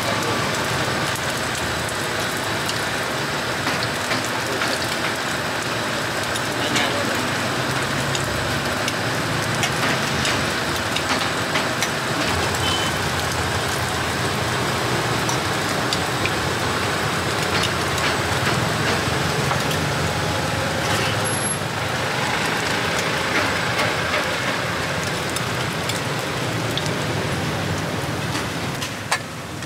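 Takoyaki batter frying in a hot griddle pan, a steady sizzle, with motor traffic running behind it.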